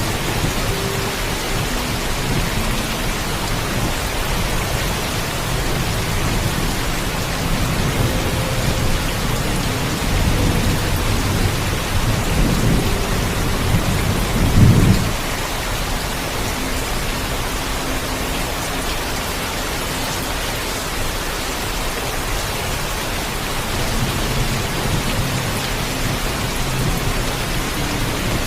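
Heavy, steady rain with thunder rumbling low underneath. The rumble swells about halfway through to a loud peak, then drops off abruptly.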